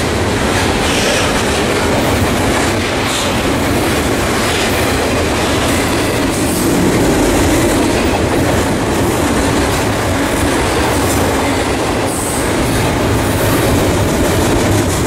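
Double-stack intermodal freight train of BNSF well cars passing at close range: a steady, loud noise of steel wheels running over the rails.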